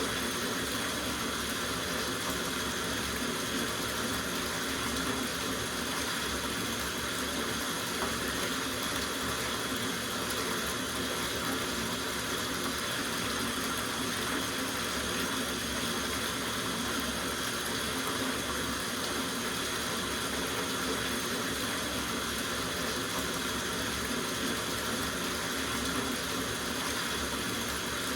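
Water running steadily from a tap into a soaking bathtub, an even rushing splash that does not change.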